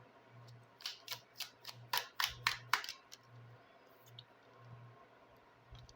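Playing cards of a Lenormand (Cigano) deck being handled and drawn: a quick run of about eight sharp card snaps, roughly four a second, over a faint low hum.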